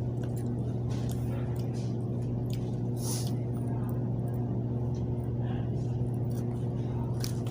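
A steady low mechanical hum, with a few short rustling or chewing noises over it; the clearest comes about three seconds in.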